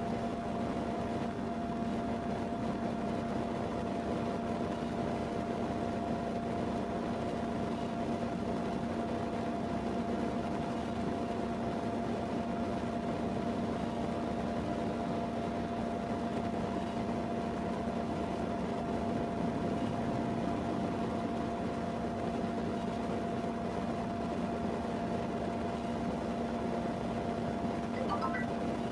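Steady mechanical hum with two constant tones, like an idling vehicle's engine and ventilation fan heard from inside the cabin.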